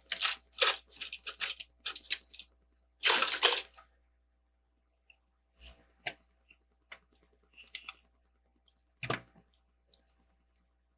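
Small plastic Lego pieces clicking and rattling as they are picked through and handled: a quick flurry of clicks and a rustle in the first few seconds, then scattered single clicks and one louder knock about nine seconds in.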